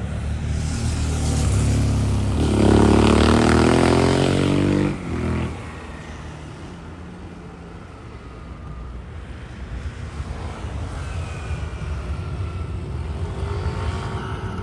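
Airbus A321neo's Pratt & Whitney geared turbofan engines passing close by on a go-around: a loud jet roar with a whine that falls in pitch as the aircraft goes past, cutting off abruptly about five seconds in. After that, a quieter steady rumble.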